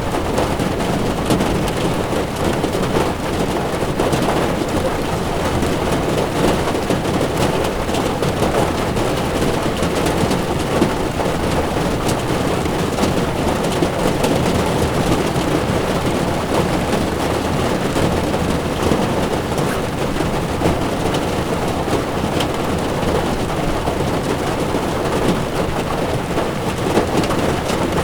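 Heavy rain drumming on a moving car's windshield and body, heard from inside, over a steady hiss of tyres on wet road, with many small sharp drop taps.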